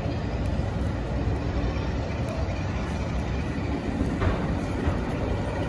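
Diesel locomotive hauling a rake of passenger coaches through a station, its engine running steadily.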